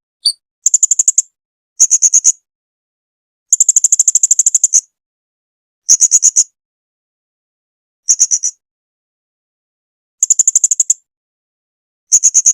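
Blue-crowned hanging parrot (serindit) calling: about seven bursts of rapid, high-pitched chirping notes, roughly ten notes a second, each burst half a second to a second and a half long, with dead silence between them. The longest burst comes about four seconds in.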